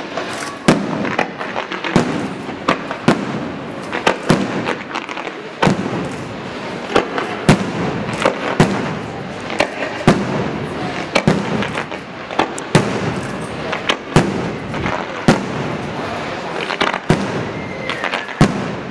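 Aerial fireworks display: shells bursting in quick succession, a sharp bang every second or so, over a continuous noisy rush of burning effects between the bangs.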